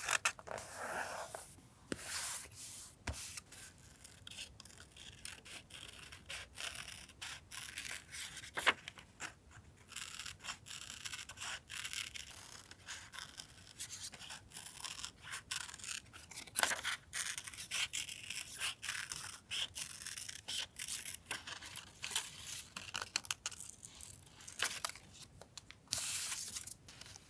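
Paper being handled at close range, rustling and scraping in many quick, crisp strokes, with a few sharper clicks.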